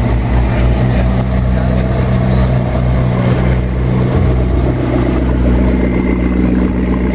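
Mid-engined V8 supercar idling steadily at the exhaust.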